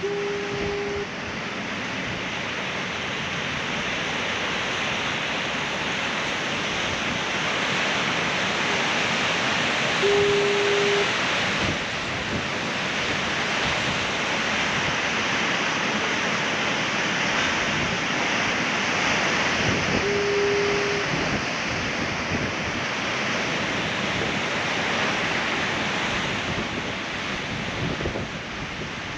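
Ocean surf washing steadily against rocks, with a foghorn sounding a short, low, one-note blast of about a second three times, every ten seconds: at the start, about ten seconds in and about twenty seconds in.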